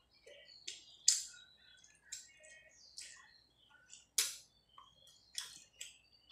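Close-miked eating sounds: wet mouth clicks and lip smacks while chewing rice and fish curry, a string of sharp clicks every half-second or so. The loudest come about a second in and again about four seconds in.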